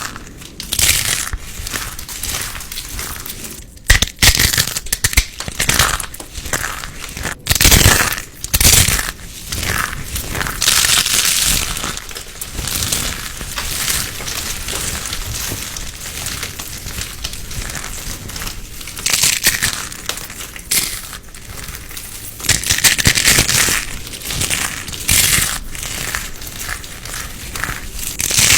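Fidget toys and craft materials being squeezed and handled: irregular crunching, crinkling and clicking noises with frequent sharp clicks.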